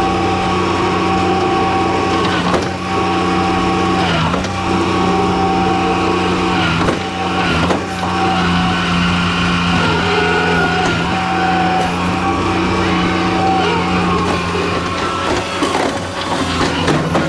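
Skid steer engine running steadily at high throttle, its note dipping briefly several times as the machine works with the new toothed bucket.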